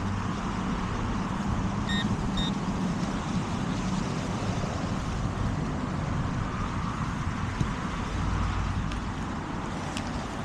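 Steady traffic noise from cars on a busy road, with two short high beeps from a metal detector about two seconds in.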